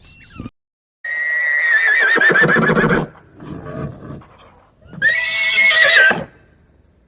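Horse whinnying twice: a long whinny of about two seconds with a wavering, shaking pitch, a quieter, lower sound in between, then a second, shorter whinny.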